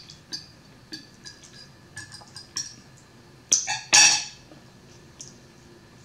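Close-miked wet chewing and lip-smacking of someone eating a mouthful of soft macaroni and cheese: small scattered smacks and clicks, with two louder sharp sounds about three and a half and four seconds in.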